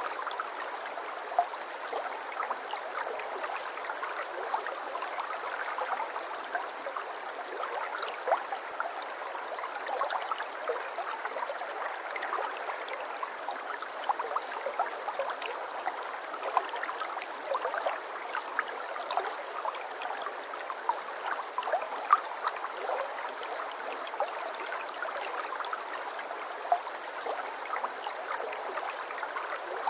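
Babbling brook: shallow water running and gurgling over stones, a steady trickle with many small splashes and plinks scattered through it.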